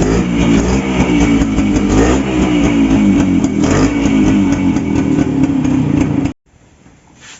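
Suzuki Samurai two-stroke motorcycle engine running, mixed with guitar music; the sound cuts off suddenly about six seconds in.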